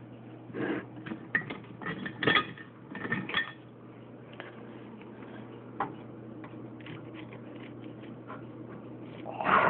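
Clinks and knocks of a dish and utensils being handled: a cluster of sharp clatters in the first three and a half seconds, then a single knock a little before six seconds.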